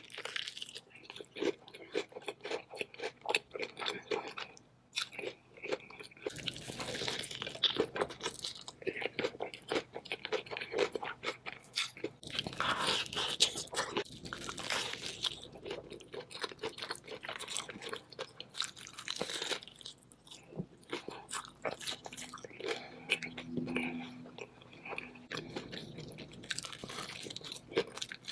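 Biting and chewing Hot Cheetos-coated seafood, the crushed-chip crust crunching loudly with each bite in many quick, irregular crisp crunches.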